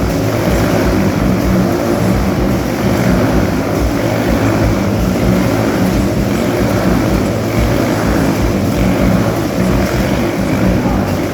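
Three motorcycle engines running at high revs together inside a steel globe of death, a loud, steady, continuous drone.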